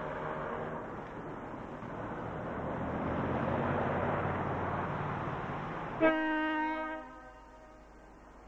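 DX class diesel-electric locomotive hauling a freight train, its engine and rolling wheels growing louder as it passes. About six seconds in it sounds one blast of its horn for about a second, and then the train noise falls away.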